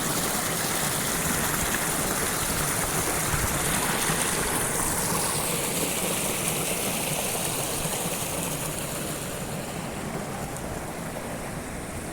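Steady rushing of a waterfall, its high hiss easing off somewhat in the last few seconds.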